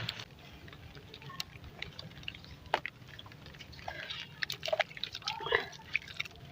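Small crunching crackles of dry and wet sand clumps being crumbled, with one sharp crack just under three seconds in and a denser run of crackles around four to five and a half seconds.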